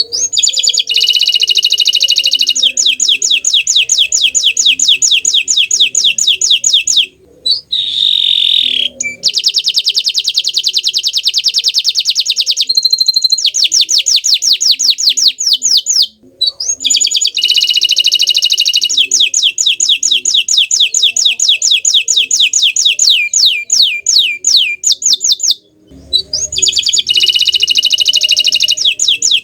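Bottle-green domestic canary singing loudly in long phrases of fast rolling trills and rapid repeated high notes, with short pauses between phrases.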